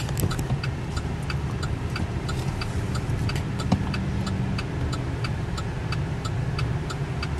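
2008 Chevy Silverado 1500 running, heard from inside the cab as a steady low rumble, with a sharp, regular ticking about three times a second over it.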